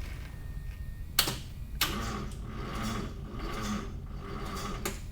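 Electric fuel pump of a 1982 Mazda RX7 running with a steady low hum. About a second in there is a sharp click, and from about two seconds in the starter turns the 12A rotary engine over slowly with a rhythmic labouring sound, on too little electrical power to crank properly.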